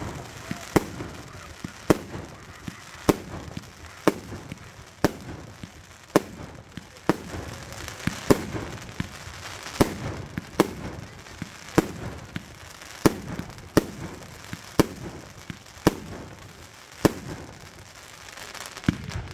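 Fireworks going off one after another: sharp bangs about once a second in a fairly even rhythm.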